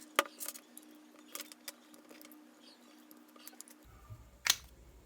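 Light metallic clicks and clinks of hands and small tools working the end cap off a Traxxas Velineon brushless RC motor. There is a sharp click near the start and another near the end, with lighter ticks between, over a faint steady hum.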